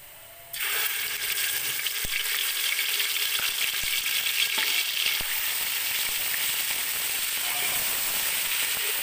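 Ginger-garlic paste dropped into hot ghee in a pot: a loud sizzle that starts suddenly about half a second in and stays steady as the paste fries, with a few faint clicks.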